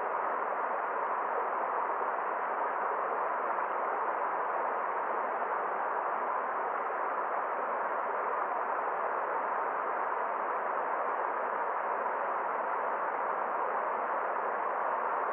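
Forest stream's water rushing in a steady, even hiss, with no separate splashes or other sounds standing out.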